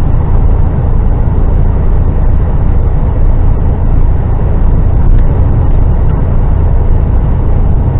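Steady low rumble of a heavy goods vehicle's diesel engine and road noise, heard from inside the moving lorry's cab.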